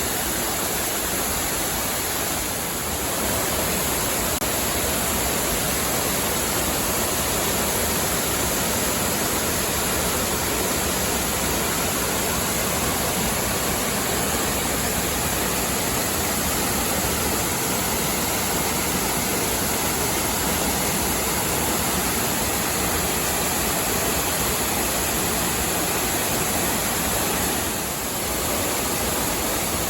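Waterfall: a steady rush of falling water and spray.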